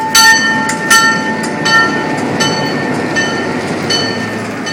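Passenger train rolling into the station, its wheels and cars rumbling. Over this a bell rings with a steady stroke about every three-quarters of a second, loudest in the first second and fading later.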